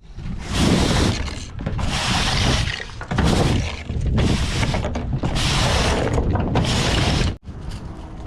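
A stiff broom sweeping the deck of a flatbed trailer: about six long brushing strokes, roughly one a second.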